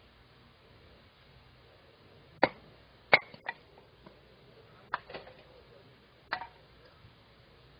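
A handful of short, sharp clicks and knocks, six in all at uneven intervals, the loudest about three seconds in, over a quiet background.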